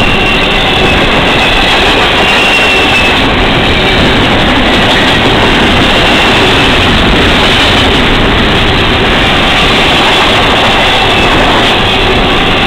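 CSX double-stack container train rolling past close by: a loud, steady rumble of steel wheels on rail, with faint high wheel squeals now and then.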